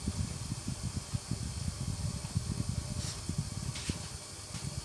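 Chicken, potatoes and carrots frying in a covered frying pan on a gas burner: the glass lid muffles the sizzle to a dense, dull crackling under a faint steady hiss.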